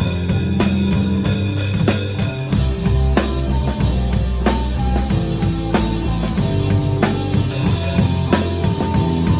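Live band playing a song with no singing: drum kit with bass drum and snare hits over sustained bass notes and held higher instrument notes.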